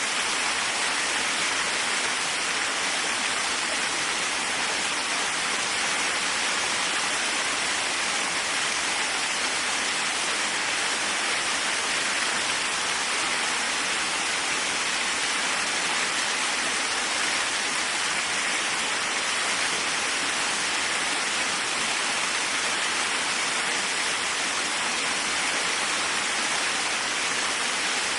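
Waterfall: falling water rushing steadily, an even hiss that is strong in the highs with little low rumble.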